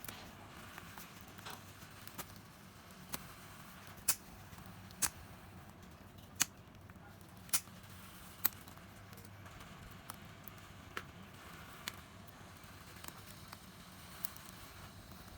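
A series of sharp clicks or taps, the loudest five coming about a second apart in the middle, with fainter ones before and after, over a faint steady low hum.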